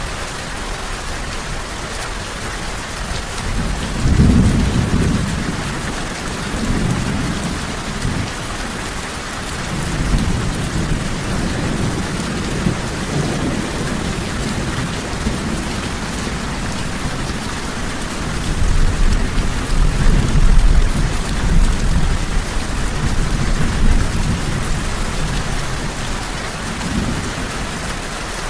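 Steady rain falling, with low rolling thunder swelling in several times: first about four seconds in, then again through the middle and the later part.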